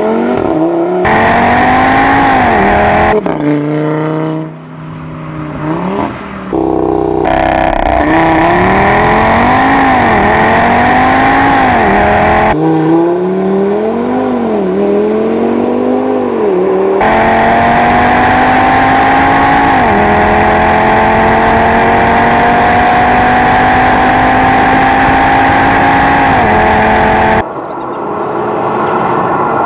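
2015 Audi RS3's turbocharged 2.5-litre five-cylinder engine accelerating hard. It revs up through the gears, and the pitch drops sharply at each upshift. Later comes one long, slowly rising pull, then the sound drops abruptly near the end.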